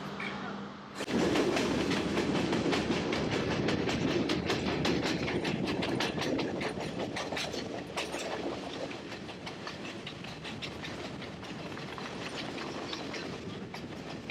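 Train running on the rails, the wheels clacking over rail joints amid a dense rattle of clicks. It comes in suddenly and loud about a second in, then eases somewhat after the middle.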